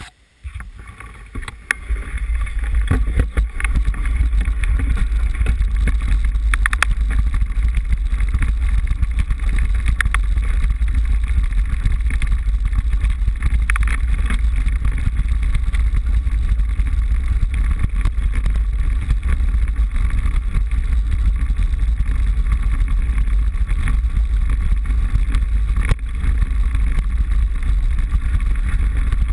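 Steady deep wind rumble and rattle from a GoPro HD HERO 960 mounted on a moving mountain bike's handlebar, with scattered sharp knocks as the bike rides over bumps. The noise builds within the first two seconds, as the bike gets going.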